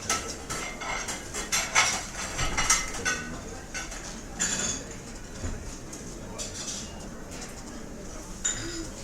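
Restaurant ambience: cutlery and dishes clinking repeatedly, busiest in the first few seconds and thinning out after about five, over a steady murmur of diners.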